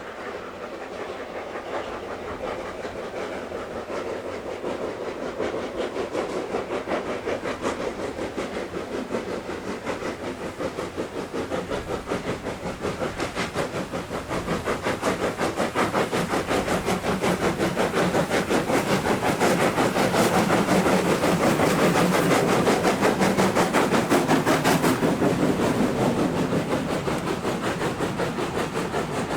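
Steam locomotive hauling a train past, with a quick, rhythmic beat and rail clatter. It grows steadily louder for about twenty seconds, then eases slightly near the end.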